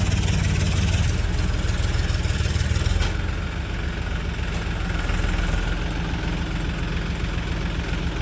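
Diesel tractor engine running steadily, easing off slightly about three seconds in.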